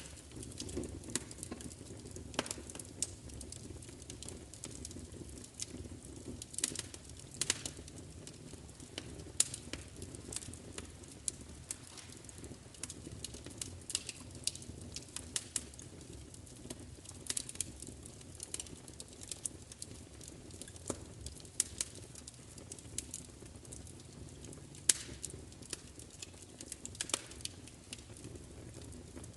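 Wood fire crackling: irregular sharp pops and snaps, a few louder ones, over a low steady rumble of the burning fire.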